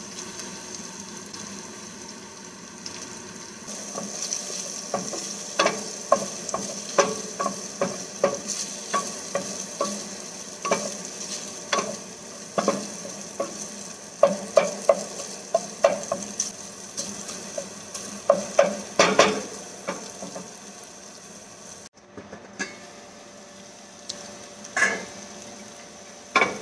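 Ground pork and diced onion frying in a stainless steel pan, sizzling steadily, while a wooden spatula stirs and scrapes it, knocking against the pan many times. The knocking thins out after a brief break two-thirds of the way through, and the sizzling goes on more quietly.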